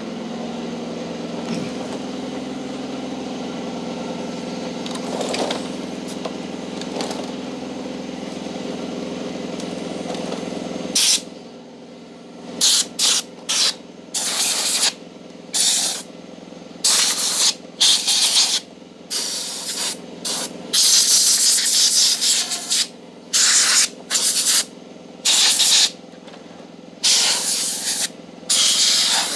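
An air compressor motor runs steadily and cuts off about 11 seconds in. Then compressed air is blasted in many short, sharp hisses of varying length, blowing dust out of vacuum cleaner parts.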